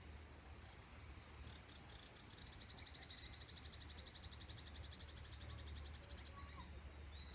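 A small animal's high, rapid trill of evenly spaced pulses starts about two and a half seconds in and lasts about three and a half seconds. A faint low steady hum runs underneath, and a few faint short chirps come near the end.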